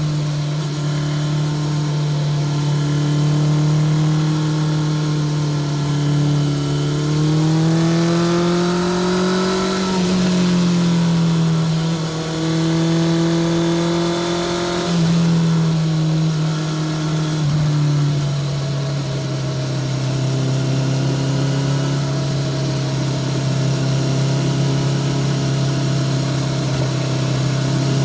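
Honda CBR650R's inline-four engine running through a Spark full titanium short exhaust while riding at steady mid revs. The pitch rises about a third of the way in, eases off, climbs again, then drops sharply about halfway and once more a little later, settling lower and steady.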